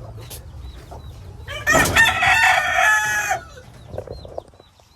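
A rooster crowing once, a loud call of nearly two seconds starting about a second and a half in. Faint, short high peeps repeat throughout.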